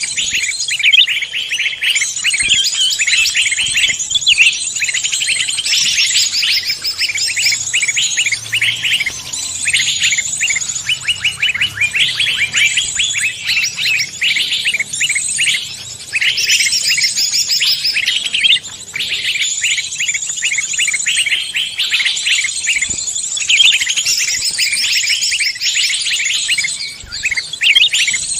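Songbirds chirping and trilling in a dense, overlapping mix of rapid high calls.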